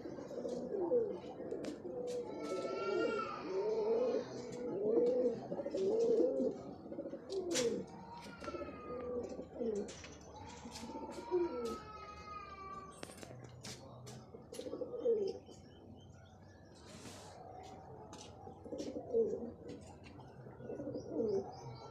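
Domestic pigeons cooing over and over, with a few higher, rising squeaky calls and scattered sharp clicks in between.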